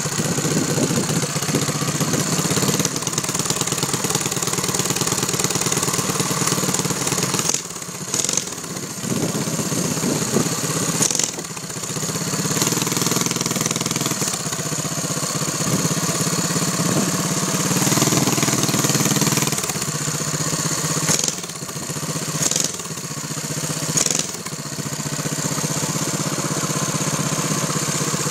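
Harbor Freight Predator 6.5 hp single-cylinder four-stroke engine on a Doodlebug mini bike, running steadily at idle. Its level dips briefly a few times.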